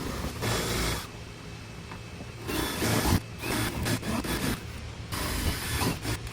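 Power drill boring bolt holes through the seat-back panels, in about four short bursts with pauses between.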